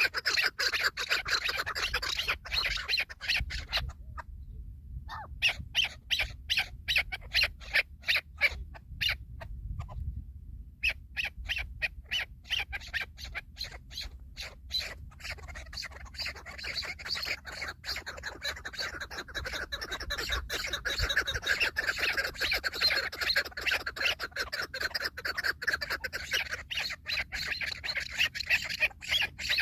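Chukar partridges calling: a fast, steady run of short clucking notes, several a second, with two brief breaks about 4 and 10 seconds in.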